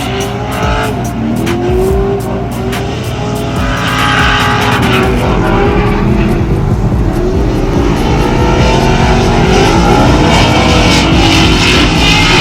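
Drift cars on track, engines revving hard and bouncing off the limiter as they slide, over a steady hiss of tyre squeal. Several engine notes rise and fall over one another, with scattered sharp crackles.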